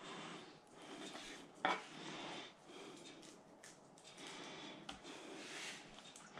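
Kitchen knife cutting raw pigeon fillets on a cutting board: faint rubbing and scraping, with one sharp knock a little under two seconds in.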